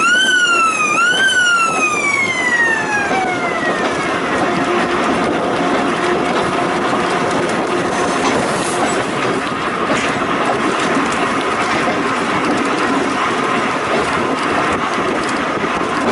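Volk's Electric Railway car running on the track. A high electric whine rises twice in the first second or so, then falls away over about three seconds into steady rolling noise.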